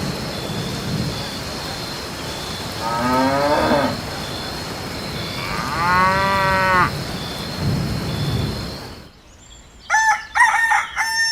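Cattle mooing twice, each call about a second long, over a steady noisy background. The background cuts off about nine seconds in, and a chicken calls in short high cries near the end.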